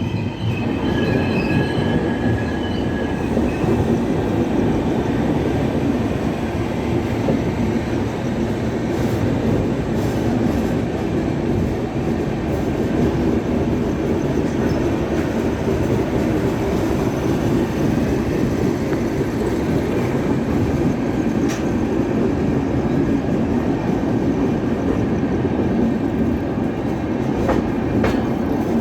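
Marudhar Express passenger train running on the rails: a loud, steady rumble of wheels and carriages, with faint high tones in the first few seconds.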